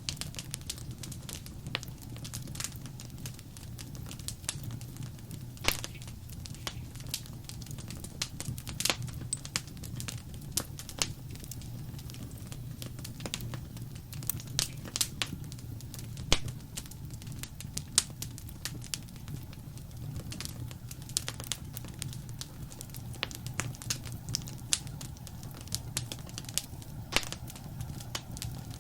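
Wood fire in a fireplace crackling steadily, with irregular sharp pops and snaps over a low rumble of burning.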